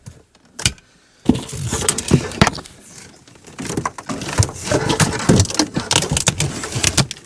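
Gear being handled: a busy run of knocks, clicks and rattles that starts about a second in, after a near-quiet moment with a couple of single clicks.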